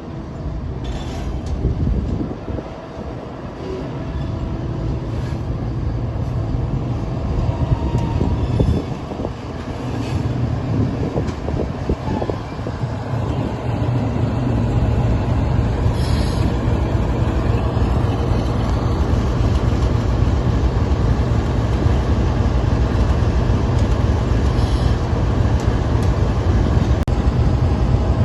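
Diesel-hauled freight train running by: a low rumble that grows louder and holds steady from about halfway through, with scattered clicks.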